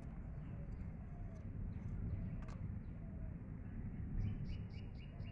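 Birds calling over a steady low rumble of outdoor background noise; near the end a bird starts a rapid run of short repeated chirps, about three a second.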